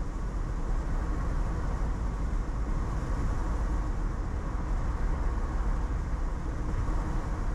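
Steady road noise of a car driving along a highway, heard from inside the cabin: a low tyre and engine rumble with a hiss of wind and road over it.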